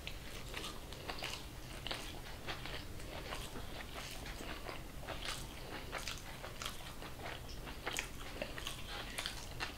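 A person chewing a mouthful of rice and curry eaten by hand: quiet, wet mouth sounds made up of many short, soft clicks, with no words.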